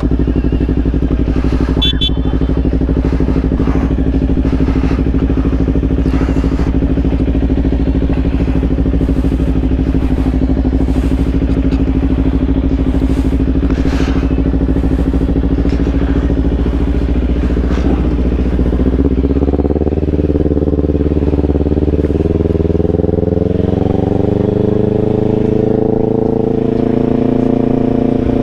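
Kawasaki Ninja 500 parallel-twin motorcycle engine running steadily at low revs, then revving up about two-thirds of the way in and climbing again near the end as the bike pulls away and accelerates.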